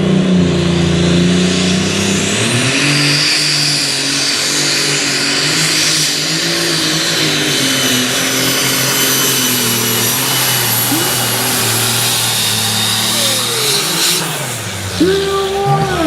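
Pulling tractor's engine running hard at high revs through a pull, with a high whine that climbs over the first few seconds and then holds. Near the end there is a short crack, the revs drop, and a quick rise and fall in pitch follows.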